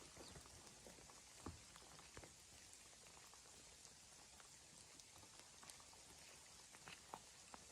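Near silence: a faint steady hiss with scattered light ticks, a few more of them near the end.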